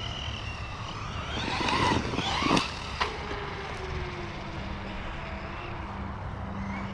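Losi Lasernut RC truck's brushless electric motor whining up in pitch as it accelerates, with two sharp knocks a little past halfway through, then winding down in a falling whine.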